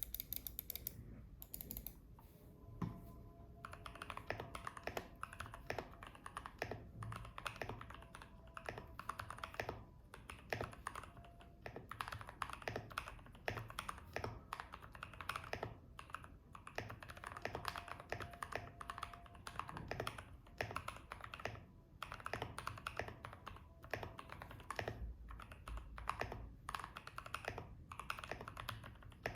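Typing on a Tofu65 custom mechanical keyboard with an acrylic case and brass plate, fitted with lubed and filmed AEBoards Naevy switches and cherry-profile keycaps: a steady run of irregular keystroke clacks after a few scattered presses at the start, with a short pause about three-quarters of the way through.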